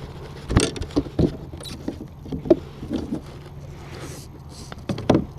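Irregular light clicks, taps and knocks of fishing tackle being handled in a kayak, as a lure is changed.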